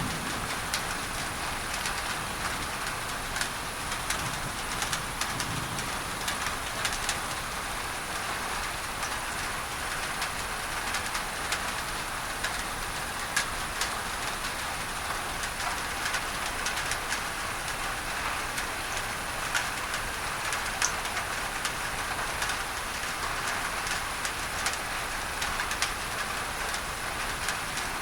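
Rain falling steadily on a tin roof, with many sharp drop ticks over an even hiss, mixed with a steady added masking noise.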